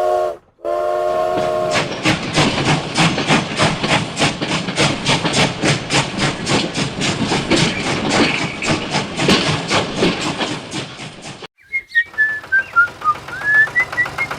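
Edited sound effects: a horn-like tone sounds twice, then a steady rhythmic chugging of about four beats a second runs for around nine seconds and cuts off. Near the end a whistled tune glides up and down.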